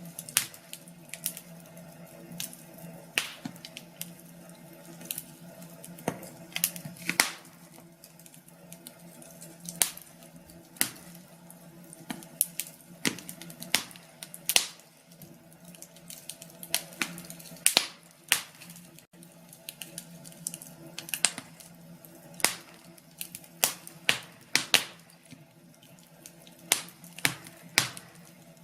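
Wood fire in a fireplace crackling, with irregular sharp pops, some much louder than others, over a faint steady low hum.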